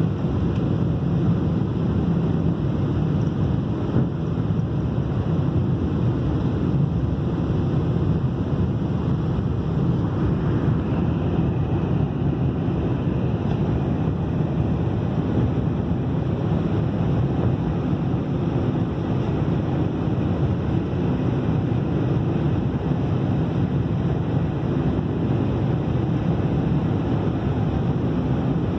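Airliner cabin noise: the steady, low roar of jet engines and rushing air heard from inside the cabin during take-off and climb, unchanging throughout.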